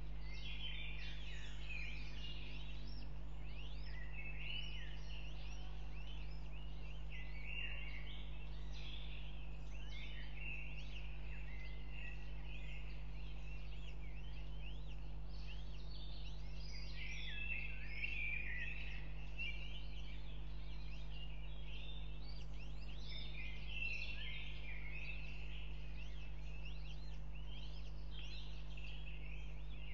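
Many high, quick bird chirps overlapping continuously, over a steady low hum.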